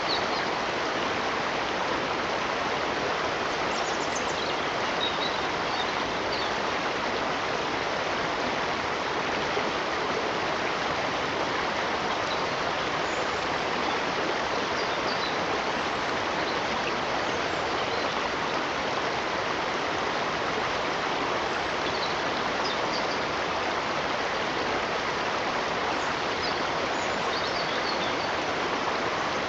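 Steady rush of a flowing stream, with a few faint high chirps now and then.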